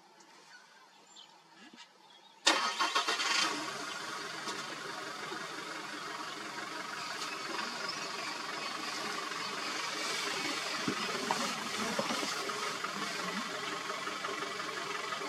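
A vehicle engine starts about two and a half seconds in, with a short loud rattle of cranking and catching, then runs steadily.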